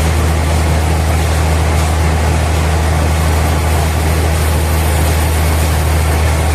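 Heavy engine running steadily at a constant speed, a deep even hum with no change in pitch or load.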